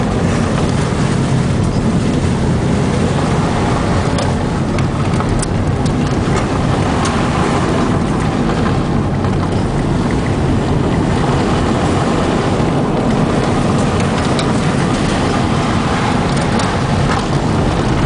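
Honda Civic hatchback driven hard on a dirt road: the engine runs under load over a steady rush of tyre and road noise, with scattered ticks.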